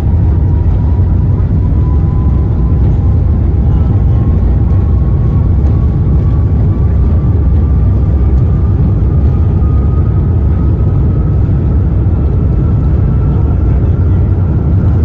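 Airbus A350-900's Rolls-Royce Trent XWB jet engines running at takeoff power: a loud, steady low roar, with a faint whine that rises slowly in pitch.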